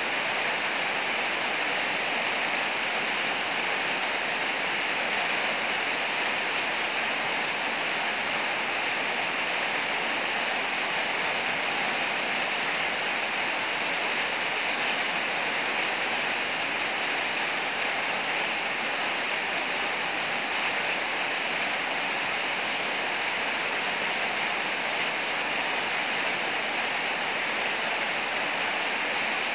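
Heavy rain falling in a steady downpour, an even hiss with no change in level.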